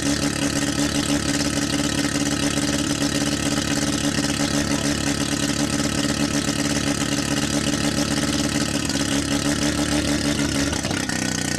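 Mazda RX-7 rotary engine idling loudly through a half exhaust with the catalytic converter removed, close to a straight pipe. The idle is steady, and the engine note drops slightly near the end.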